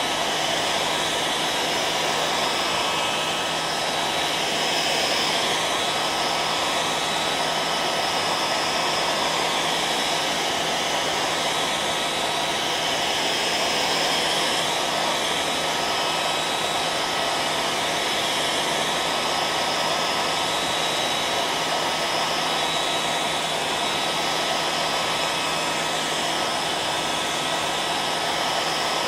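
Hair dryer running steadily: an unbroken rush of blown air with a faint constant hum and whine.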